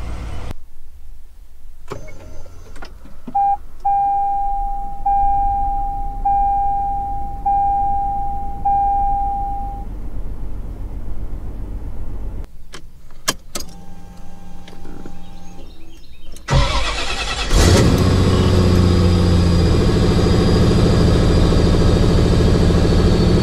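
A run of car start-ups: a late-model Toyota starts quietly while its dashboard chime dings about five times at an even pace; another car starts briefly with a few clicks; then in the last third an older Chevrolet SS cranks, catches with a rev and settles into a loud, steady idle.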